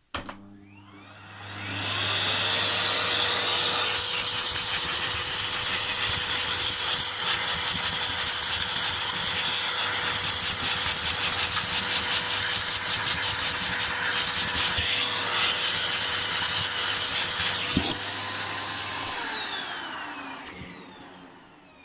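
Zelmer Meteor 2 canister vacuum cleaner switched on at full power, its whine rising as the motor spins up. It runs steadily with a crackling rasp as the hose nozzle is dragged quickly over a Roomba brush to suck out fluff. Near the end it is switched off and the whine falls away.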